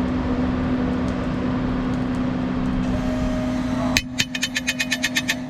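A steady background hum, then from about four seconds in a sharp knock followed by a quick, even run of about a dozen taps, roughly eight a second. The taps are a bottle of paprika being tapped to shake the last of it out into the mixer bowl.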